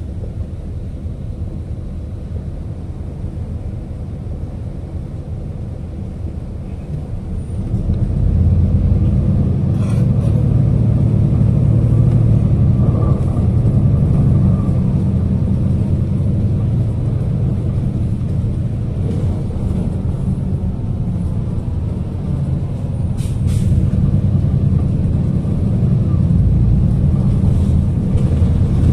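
City bus heard from inside the passenger cabin: a low engine rumble that grows louder about seven seconds in as the bus pulls away, then runs on steadily, with two brief high hisses along the way.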